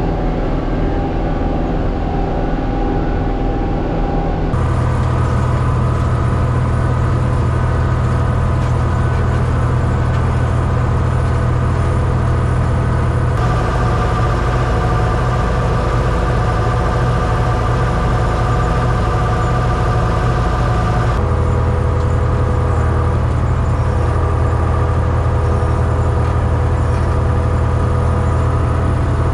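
Farm tractor engine running steadily while working a field, its tone shifting abruptly about four, thirteen and twenty-one seconds in.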